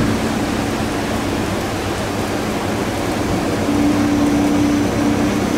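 Steady hiss of falling rain, with a steady low hum underneath that gets louder about two-thirds of the way through.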